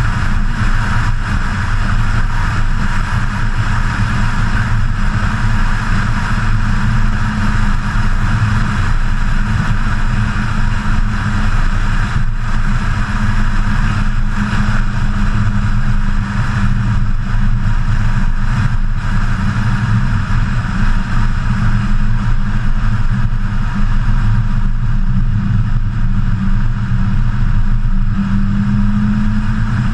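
BMW E92 M3's V8 engine cruising at a steady drone, with steady wind and road rush over a hood-mounted camera. The engine note rises a little near the end.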